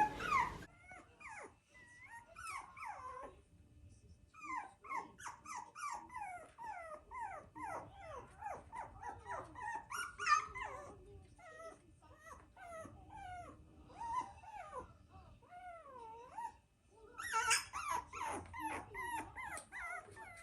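Havapoo puppy whining and whimpering: a quick series of short, high cries, each falling in pitch, with brief pauses. The crying of a new puppy that has just been put back in its crate at night.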